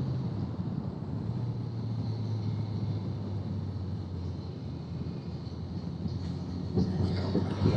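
Motorcycle engine running steadily under way, with road noise, getting louder about seven seconds in.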